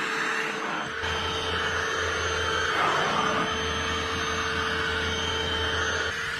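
UV Care Super Power cordless UV-C vacuum cleaner running, a steady motor whine over the rush of air. A lower rumble drops out for about the first second and again near the end, as the nozzle's load changes.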